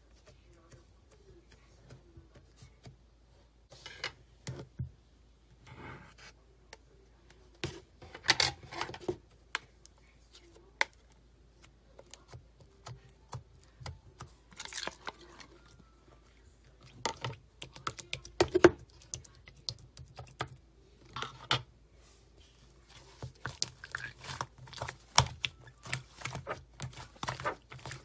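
Slime being squeezed, stretched and poked by hand, giving irregular sharp clicks and crackling pops in clusters, the loudest about eight and eighteen seconds in.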